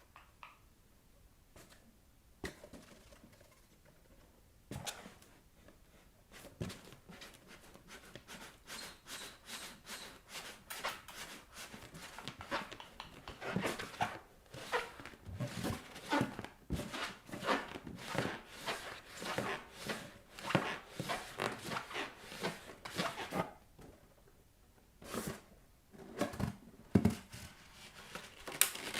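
Bare feet rubbing and tapping on an inflated latex balloon, in a quick run of strokes, a few a second, from about six seconds in until near the last quarter. Then a short lull and a few louder, separate knocks near the end.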